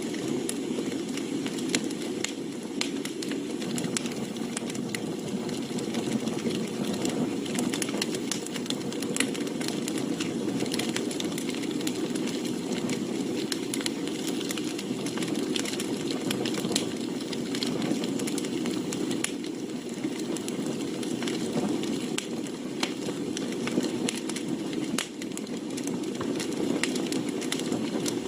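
Wood fire burning in a fire pit, with frequent sharp crackles and pops from the burning firewood over a steady low rush.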